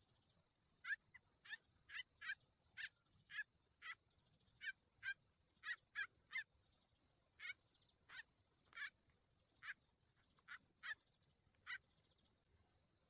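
An animal giving a quick, irregular series of short, sharp chirping calls, roughly one or two a second, over a steady high drone of crickets.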